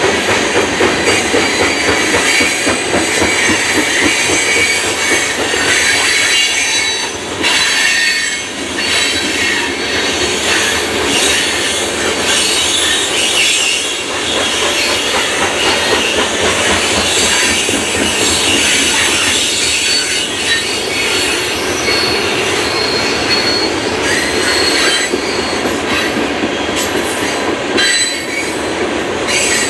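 Coal cars of a long freight train rolling past close by: a continuous loud rumble and clatter of steel wheels on rail, with high-pitched wheel squeal ringing over it, strongest about halfway through.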